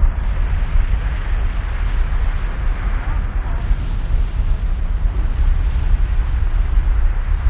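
Steady, buffeting low rumble with a hiss over it, typical of wind on the microphone.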